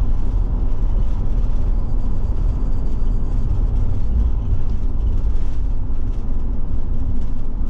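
Steady road and engine noise inside the cab of a Forest River Forester motorhome driving along a highway: a low, even rumble of drivetrain and tyres.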